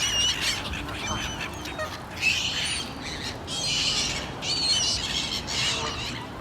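Birds calling: a run of short, high-pitched calls, several overlapping at once.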